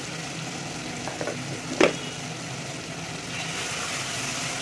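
Onion-tomato masala with freshly added ginger-garlic paste frying in oil in an aluminium pot, under a steady low hum. A spoon clanks once against the pot about two seconds in; then stirring starts and the sizzle grows louder near the end.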